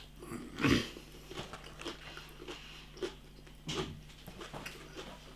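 A person biting and chewing a crispy-coated buttermilk chicken strip, with irregular small crunches and mouth sounds; the loudest bites come just under a second in and again nearly four seconds in.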